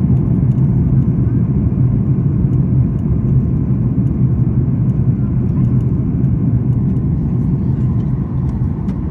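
Steady low cabin rumble inside a Boeing 737-8 MAX airliner, the engines and air noise running evenly without change.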